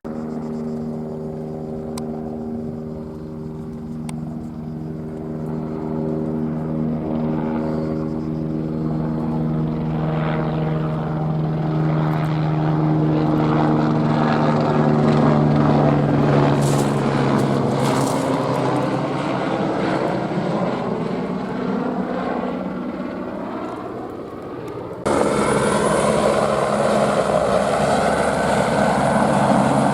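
Airbus AS350 helicopter flying, its rotor and turbine making a steady pitched buzz that swells and eases. About 25 seconds in the sound jumps abruptly louder and brighter.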